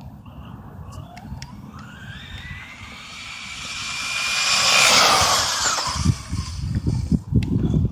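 Electric motor of an RC stadium truck running on a 3S LiPo, its whine climbing in pitch and growing louder as it speeds toward and past, peaking about five seconds in and then falling away. Low rumbling thumps follow near the end.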